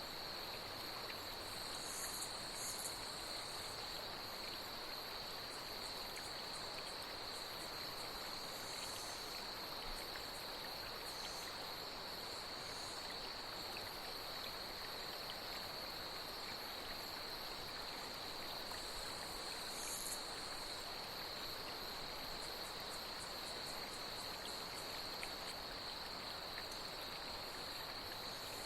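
Night insects trilling steadily in one unbroken high tone over the even rush of flowing water. Short, higher chirps cut in a few times: about 2 s in, around 9 s, near 12 s and around 20 s.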